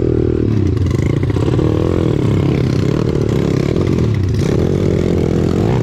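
Pit bike's small single-cylinder four-stroke engine running, its pitch rising and falling as the throttle is worked.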